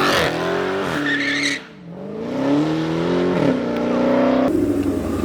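A car engine revving hard as it pulls away: the pitch climbs, drops with a gear change about a second and a half in, climbs again, then falls back and settles to a steady drone near the end.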